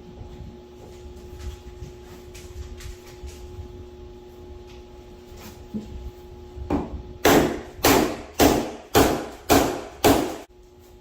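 Hammer blows: a few light taps, then about six hard strikes at roughly two a second near the end, each with a brief ring.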